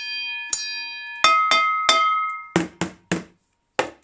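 A rhythm pattern struck on household kitchenware. First come five hits on ringing metal pans, in two different pitches, each left to ring on. Then four short, dull knocks that do not ring.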